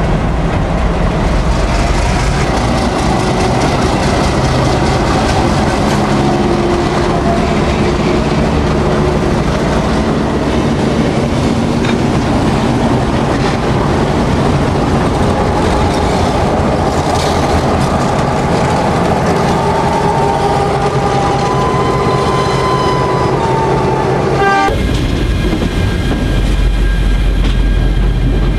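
Narrow-gauge diesel train running, the locomotive's engine steady under the rumble and clatter of wagons on the rails. The sound changes sharply near the end.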